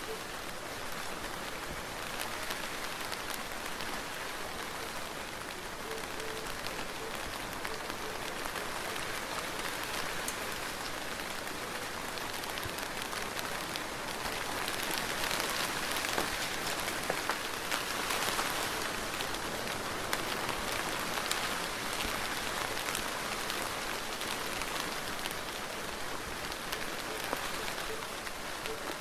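Steady soft rain falling on a surface, a continuous hiss scattered with fine individual drop taps, swelling slightly about halfway through.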